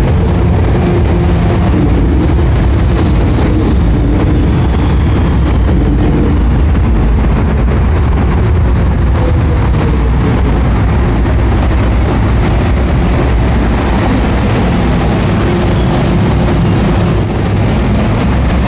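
MTR Kwun Tong line Modernisation Train, an electric multiple unit, pulling into the platform and slowing to a stop: a steady, loud rumble of wheels on rail, with faint motor tones in it.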